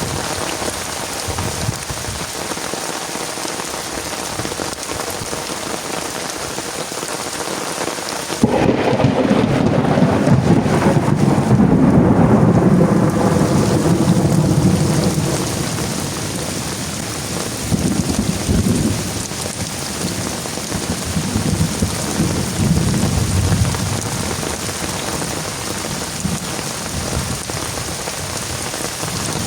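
Steady heavy rain, with a clap of thunder breaking in about a third of the way through and rumbling away over several seconds. Fainter rolls of thunder follow twice.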